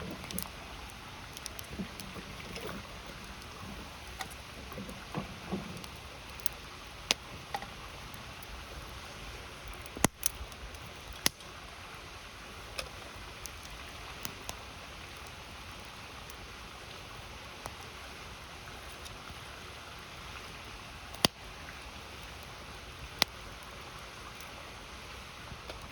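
Wood campfire crackling, with scattered sharp pops (the loudest about ten seconds in and again about twenty-one seconds in), over the steady rush of a river.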